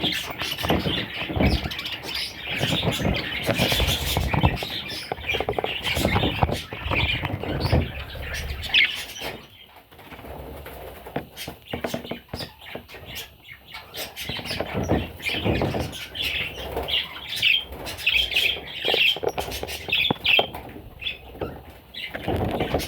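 Budgerigars chirping in short high calls amid rustling and wing fluttering, with a quieter spell of a few seconds in the middle.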